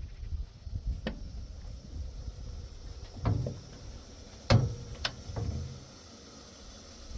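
A handful of short knocks or bangs, the loudest about four and a half seconds in, over a low steady rumble.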